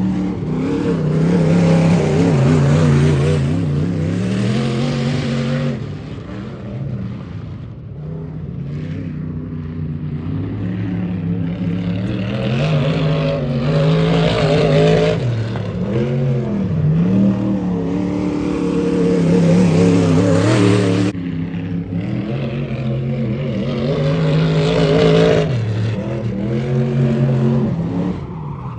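Dirt-track race car engines running laps in practice, their pitch rising and falling as they accelerate and lift, swelling loud several times as cars pass and fading between passes.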